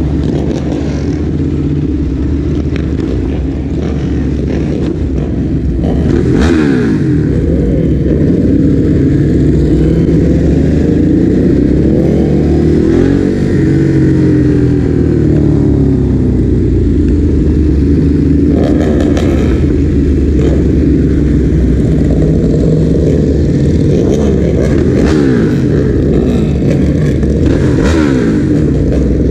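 Ducati Hypermotard motorcycle's L-twin engine running under way, its note rising and falling as it accelerates and eases off. A few brief rushing bursts come through at times.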